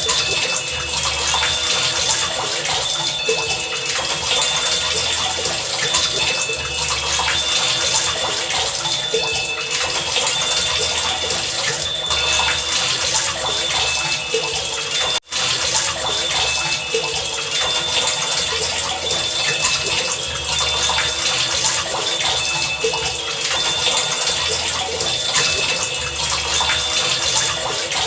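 Steady heavy rain, with faint high pinging tones and a low rumble that recur every couple of seconds. The sound cuts out for a split second about halfway through.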